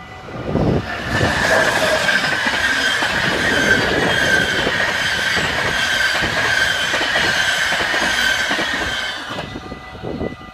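An InterCity passenger train passing over a level crossing at speed: the noise of wheels on rails swells up about a second in and falls away near the end, with a high steady wheel squeal over it. The crossing's warning bells keep ringing throughout.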